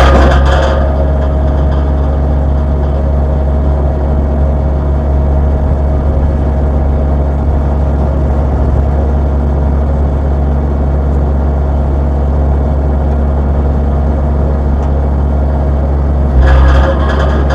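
Sany excavator's diesel engine running steadily with a deep hum. It drops from a harder, busier sound in the first second and picks up again about a second before the end, as under load.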